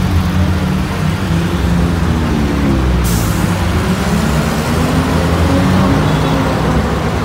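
Air-cooled flat-four engine of a Volkswagen Beetle running close by as the car moves slowly in traffic, a low engine note that rises and falls a little. A short hiss cuts in about three seconds in.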